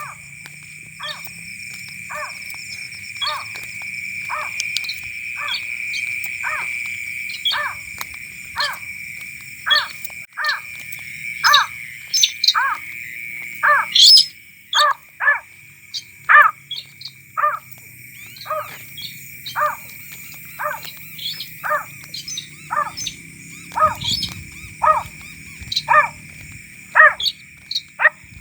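A bird calling over and over, short sharp notes repeated roughly once or twice a second, over a steady high-pitched drone.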